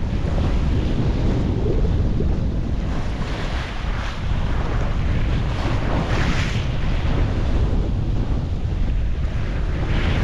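Strong wind buffeting the microphone while sea waves wash past a sailboat under way, with a louder rush of water about six seconds in.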